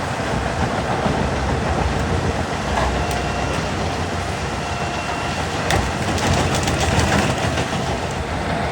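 Large wood chipper running with a steady heavy machine din, with a quick run of sharp cracks and clatter about six to seven seconds in as wood goes through.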